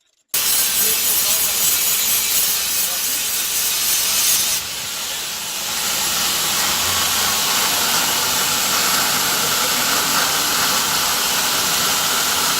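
Loud steady hissing noise that starts abruptly and shifts slightly in tone a little under five seconds in.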